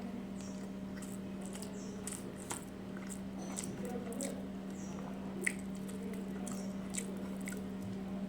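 Close-up mouth sounds of a person eating: chewing, with scattered wet clicks and smacks, over a steady low hum.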